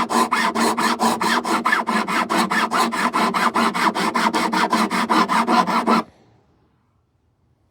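Quick back-and-forth abrasive strokes across the frets of a Martin D16 acoustic guitar during fret dressing, about five strokes a second. The strokes stop abruptly about six seconds in.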